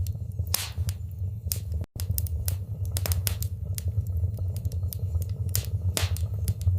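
Wood fire in a fireplace crackling, with irregular sharp pops and snaps over a steady low rumble of the flames. The sound cuts out for an instant about two seconds in.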